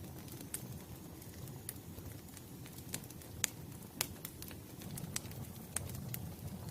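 Wood fire crackling: irregular sharp pops and snaps over a low steady rumble, the loudest pops a little past the middle.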